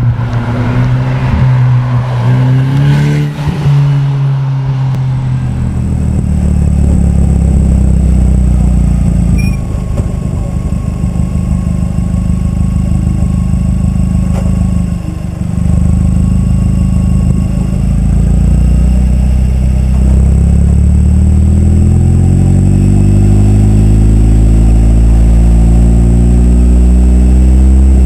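KTM X-BOW GT's turbocharged 2.0-litre inline four-cylinder engine running under load. The revs shift in the first few seconds, then it holds at low revs with a brief lift about halfway. Near the end the revs climb steadily as the car accelerates.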